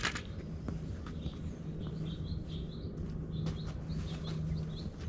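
Songbirds chirping in quick runs of short high notes, over a steady low hum and rumble, with a sharp click at the very start.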